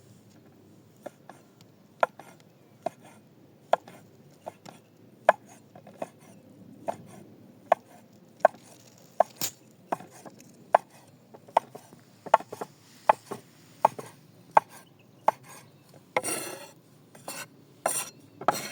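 Knife chopping sausage on a cutting board: single sharp strokes, about one every three-quarters of a second, coming closer together partway through, with a few longer, noisier strokes near the end.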